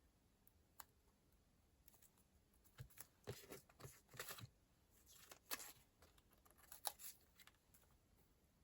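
Paper and stickers being handled at a desk: a faint tick, then several short, quiet bursts of paper rustling and tearing, the sharpest near the end.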